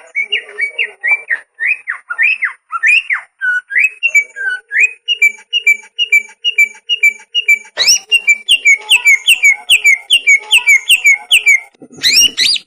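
Cak ijo (an iora) singing: a run of clear, slurred whistled notes repeated two or three times a second. About eight seconds in it switches to a faster, even string of down-slurred whistles, then gives a short harsh rasp near the end.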